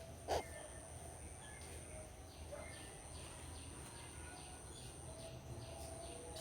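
Outdoor birdsong: one brief sharp call just after the start, then a run of short, repeated high chirps, over a steady high-pitched insect-like whine and a low hum.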